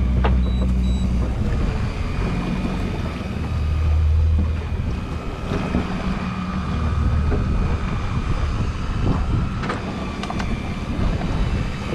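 Boat engine running steadily, with wind buffeting the microphone in low rumbling gusts and a few sharp clicks about nine to ten seconds in.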